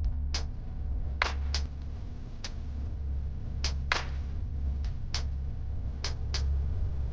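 Suzuki Jimny JB64's engine idling, heard inside the cabin as a steady low hum. About a dozen sharp clicks fall irregularly over it, several in quick pairs.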